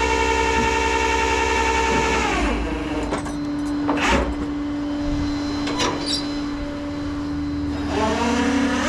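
Truck engine running at raised revs with a steady whine, dropping to a lower steady note about two seconds in, then revving back up near the end. Two sharp metallic clanks sound in the middle.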